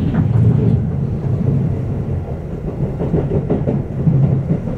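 Keihan 8000 series electric train running at speed, heard from inside the passenger car: a steady low rumble of wheels on rail with irregular clacks over track joints.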